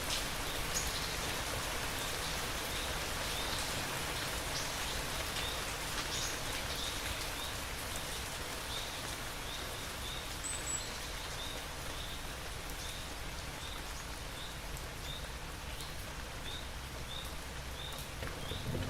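Steady rain falling, with occasional heavier drops. Through the second half, a short high chirp repeats about twice a second.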